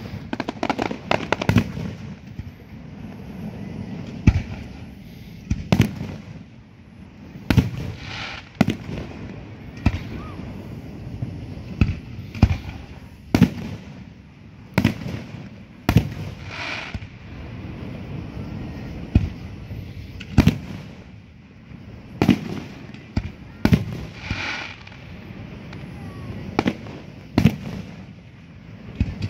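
Aerial firework shells bursting in a continuous barrage: sharp bangs come irregularly, about one or two a second, over a low rumble from the show.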